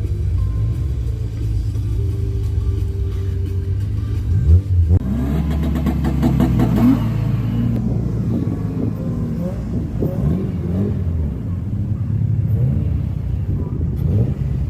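Car engines running with a deep, steady rumble, and revs that rise in pitch about five seconds in and again around ten seconds.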